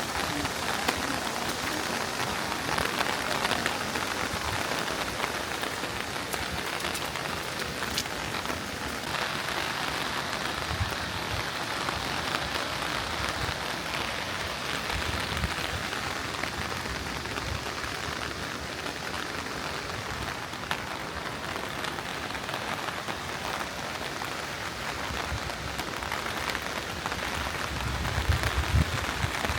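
Steady rain falling: a dense, even patter of drops with the occasional sharper tick. A few low bumps come near the end.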